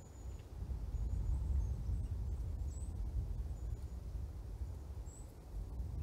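Long-tailed tits calling: a handful of short, very high, thin calls scattered through, some with a slight upward slur, over a low rumble on the microphone.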